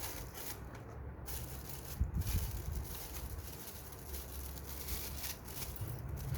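Handling noise: rustling and light knocking as a lamp and its packaging are handled, with one sharper knock about two seconds in.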